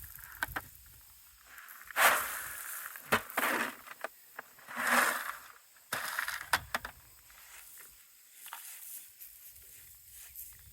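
Gravel crunching in a series of short, irregular scrapes, the loudest about two seconds and five seconds in, with a few sharper clicks around six to seven seconds.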